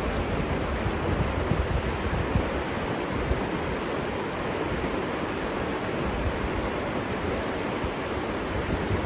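River water flowing, a steady rushing noise with no letup.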